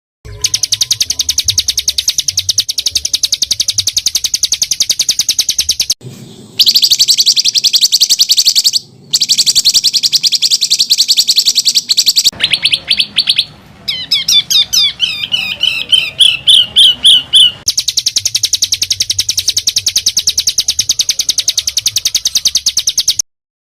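A songbird giving harsh, very fast, tightly packed trills in several long runs, broken by short gaps. About midway comes a run of separate, clearer repeated notes. This is the tight rolled 'kasaran' material used as tutor song for competition birds.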